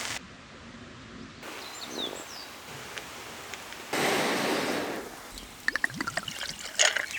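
Outdoor woodland ambience with birds: a few thin, falling bird calls about two seconds in, and a cluster of short chirps near the end. Under them is a steady hiss that changes abruptly several times.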